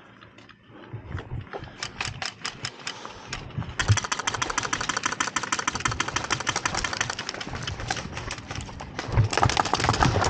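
Airsoft guns firing: scattered single shots, then a long full-auto burst of rapid clicks from about four seconds in to about eight seconds, and another burst near the end.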